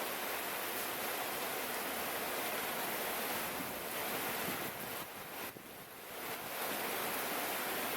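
Steady rain falling, a dense even hiss that briefly eases about five and a half seconds in before coming back up.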